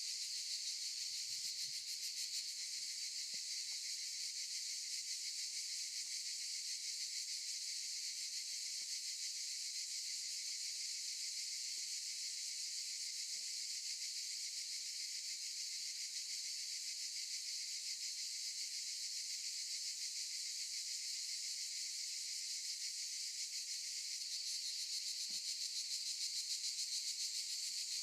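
A chorus of cicadas buzzing in a continuous high-pitched shrill, swelling slightly louder near the end.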